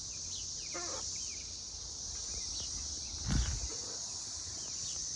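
Steady high-pitched drone of a cicada chorus, with faint chirps of small birds over it and one short call about a second in. A brief low thump a little past three seconds in is the loudest sound.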